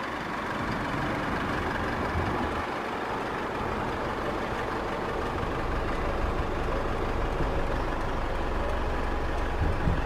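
A vehicle engine rumbling steadily under a broad hiss, the low rumble growing stronger about halfway through.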